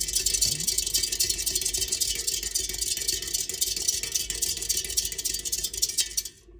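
Squirrel scratching busily, a dense, fast run of dry little clicks that stops abruptly about six seconds in.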